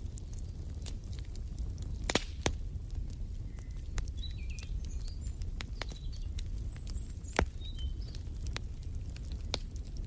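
Wood fire crackling, with scattered sharp pops over a steady low rumble; two pops stand out loudest. Faint high bird chirps come and go in the middle.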